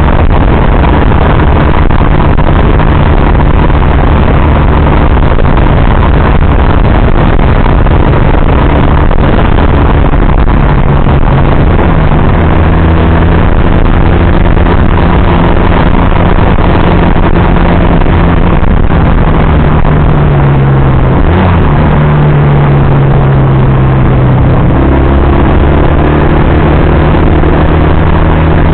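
Motorcycle engine running under way, loud, with a roar of wind over the microphone. The engine note steps up around the middle, dips briefly about three-quarters through, then rises again as the speed changes.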